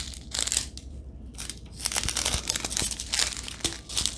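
Small plastic baggies of diamond painting drills crinkling as they are handled, in uneven rustling bursts with a few light clicks.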